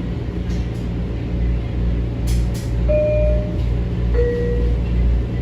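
Metro-North M7 electric train running, a steady low rumble inside the car. About three seconds in comes a two-note descending chime, each note held briefly.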